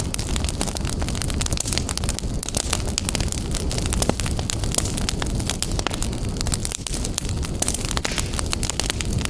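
Wood fire burning in a fireplace, crackling and popping continuously over a low steady rumble of the flames.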